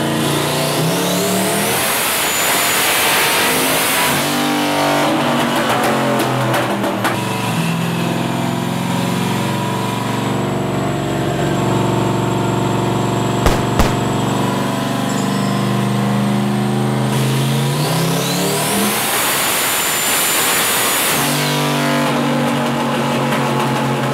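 Turbocharged LS-swapped Mustang's V8 running on a chassis dyno, revving up twice, each time with a rising turbo whistle that levels off high. Two sharp cracks come about halfway through.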